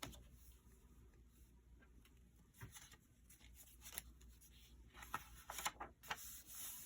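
Faint rustling and light taps of paper and card as journal pages are handled and turned, busiest near the end.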